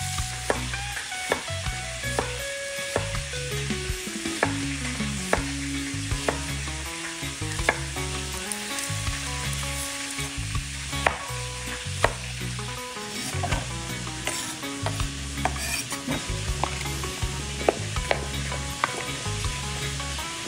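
Chicken pieces sizzling as they brown in a pot, with scattered sharp clicks, over background music with a steady bass beat.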